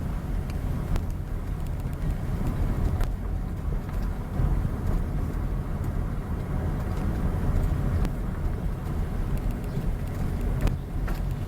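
Steady low rumble of a moving motor vehicle: engine and road noise, with a few faint ticks.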